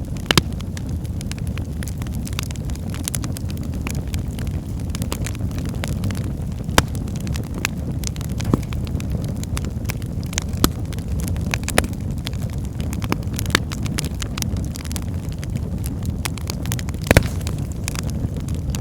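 Wood fire burning in a fireplace: a steady low rumble of flames with irregular sharp crackles and pops of the burning logs, a few louder pops standing out.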